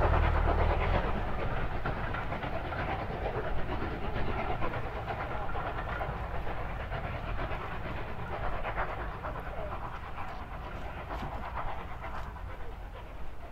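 Steam-hauled passenger train passing at a distance: the rumble of the coaches on the track, heaviest at the start and fading steadily as the train draws away.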